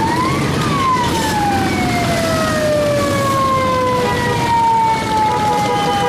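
A siren winds up to its peak about half a second in and then slowly winds down, with a second siren tone falling from about two seconds in. Underneath is a steady low rumble of motorcycle engines.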